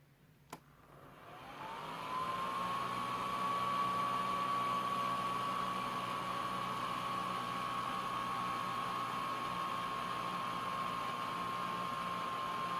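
Homemade bladeless fan (air multiplier) switched on with a click. Its motor spins up with a rising whine that settles into a steady high whir over a rush of air.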